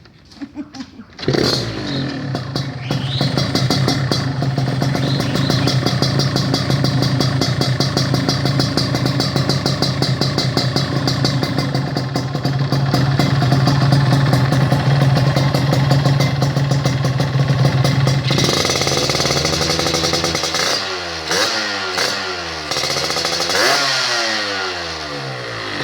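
Yamaha RX-King's two-stroke single-cylinder engine running through an aftermarket YA MGM exhaust. It starts about a second in after a few clicks and idles steadily. Over the last several seconds it is revved in a series of blips, its pitch rising and falling.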